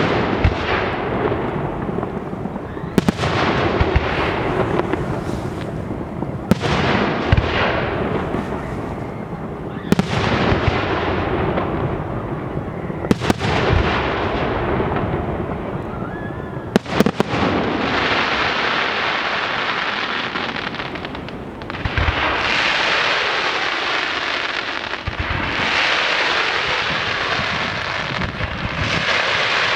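Professional fireworks display: shells bursting with sharp bangs about every three and a half seconds, each followed by a long fading tail of noise. From a little past halfway the bursts merge into a dense, continuous wash of sound with a few louder booms.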